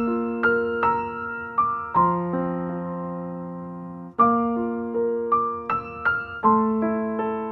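Background piano music: a slow melody of single struck notes over sustained chords, each note fading after it is struck.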